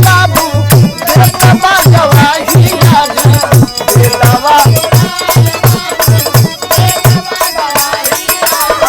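Bhojpuri birha folk music between sung lines: a steady low drum beat, about two to three strokes a second, under a wavering melody line.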